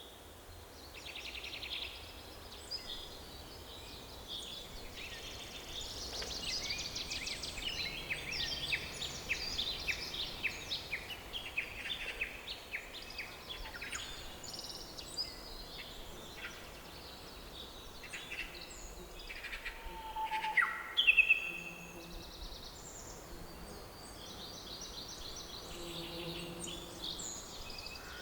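Several songbirds singing and calling at once, with rapid trills, chirps and short whistles, over a faint steady hiss of background noise. The loudest calls come in a short burst about three quarters of the way through.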